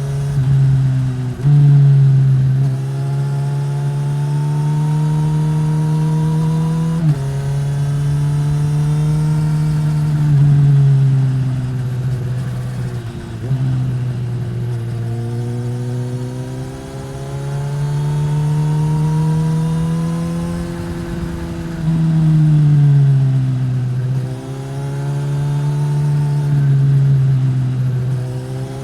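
2015 Suzuki GSX-S1000's inline-four engine through a Yoshimura R-11 slip-on exhaust, pulling hard and easing off again and again on a winding road. The engine note climbs under throttle, drops suddenly at gear changes and falls away as it slows.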